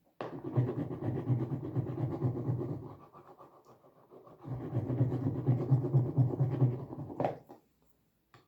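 A pen scribbling rapidly on paper or card, colouring in, in two bouts of about three seconds each with a short pause between them.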